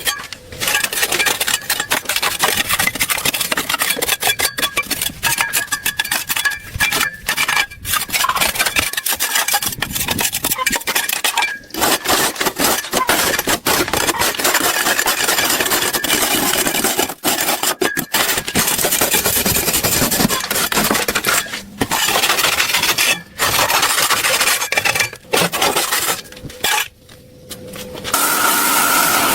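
Abrasive scraping and rubbing, a steady rasping noise in long runs broken by frequent short gaps.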